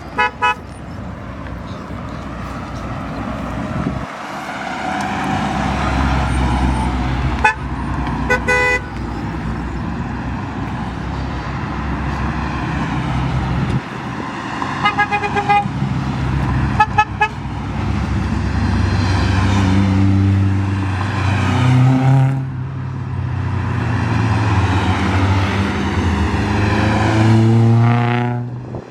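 Car engines running and revving, with short car-horn toots several times and a steeply rising rev near the end.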